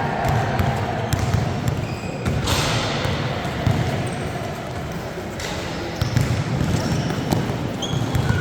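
Basketball being bounced on a gym court with background crowd voices and short high squeaks. A louder rush of hissing noise runs from about two and a half seconds to five seconds in.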